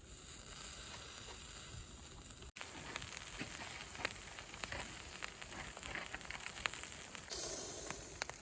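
Food sizzling as it grills over a wood fire, with scattered crackles and pops from the burning firewood. The sound breaks off for an instant about two and a half seconds in.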